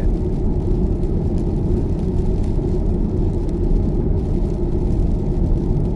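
Steady road and tyre noise heard from inside a car cabin while driving at motorway speed.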